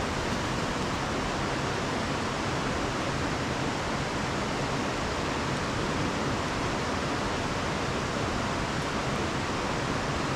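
Steady rushing of a small waterfall on a woodland river, an even unbroken hiss of water.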